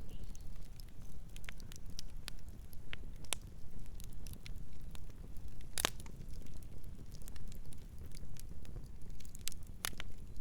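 Campfire burning with irregular sharp crackles and pops from the wood, one loudest pop about six seconds in, over a steady low rumble of the flames.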